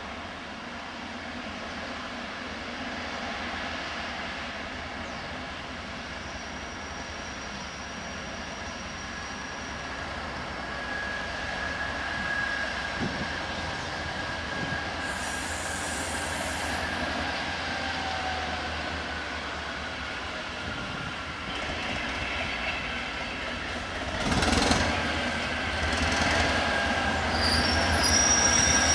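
Northern Ireland Railways diesel multiple unit running in on curved track, its wheels squealing in high thin tones over the rumble of the train. It grows louder as it draws close, with a louder clattering rumble from about twenty-four seconds in.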